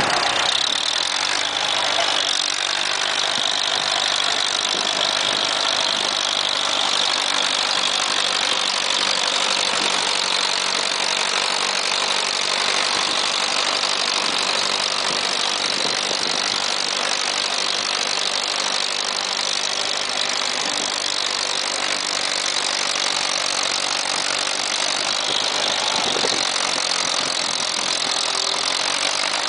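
1958 International W450 tractor's engine running steadily under load while pulling a weight sled.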